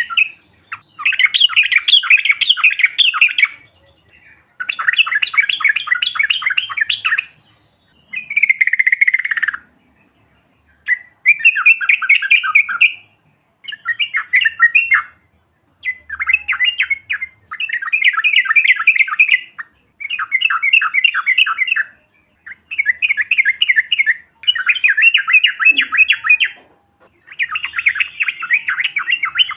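Yellow-vented bulbul (trucuk) calling in long, fast chattering phrases, each a couple of seconds long with brief pauses between. One phrase, about eight seconds in, slides downward. The calls are a lure recording meant to set other trucuk singing.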